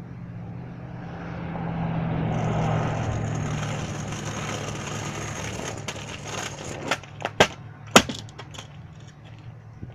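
A kick scooter's wheels rolling over pavement, a rough noise that swells and fades over several seconds, then a few sharp clattering knocks about seven to eight seconds in as the scooter hits the ground.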